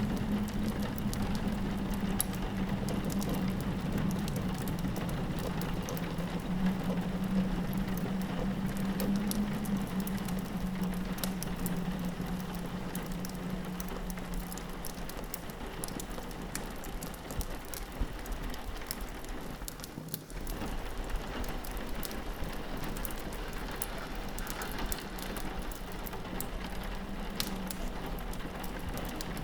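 Rain pattering on a window mixed with a crackling log fire, many small pops and ticks over a steady hiss. A low wind howl sits under it and fades after about the first half.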